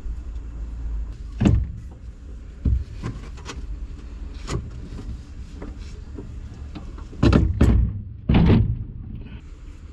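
Metal knocks and clanks from parts and tools being handled during hydraulic work on a mini excavator, with the loudest cluster of clanks near the end, over a steady low rumble.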